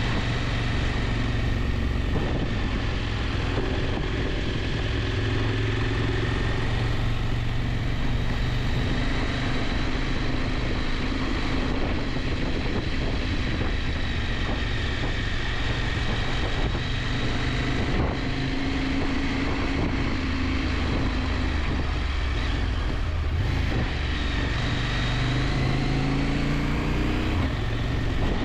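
KTM 890 Adventure's parallel-twin engine running while the bike is ridden, its revs rising and falling, over a steady rush of wind noise.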